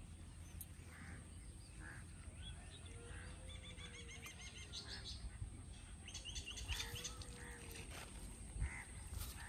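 Faint birdsong: two bursts of rapid, evenly repeated short high chirps, each over about a second. Two faint low rising-and-falling calls come with them, over a steady low outdoor background.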